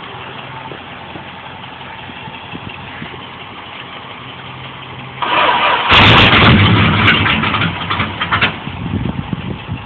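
Dodge truck engine being cold-started on nitromethane as a starting aid. A steady lower sound grows louder about five seconds in, and about a second later the engine catches, firing loud and ragged with sharp cracks for a couple of seconds before running on unevenly.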